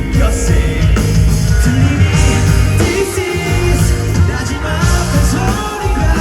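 Live rock band performing: electric guitars, bass and drums with a lead singer, loud and continuous.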